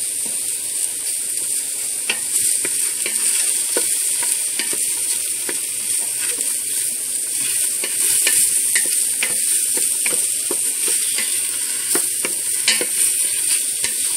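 Sliced cremini mushrooms sizzling in olive oil in the stainless steel inner pot of a Power Quick Pot on its sauté setting, a steady hiss, with a utensil clicking and scraping against the metal pot as they are stirred.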